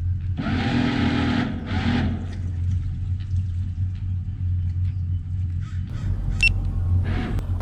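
Boat engine idling with a low steady rumble, with two short bursts of rushing noise about half a second and two seconds in.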